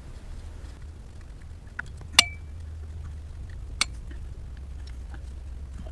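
Metal tools clinking against engine parts during coil pack work: a small tick, then two sharp metallic clinks, the first with a brief ring, over a low steady hum.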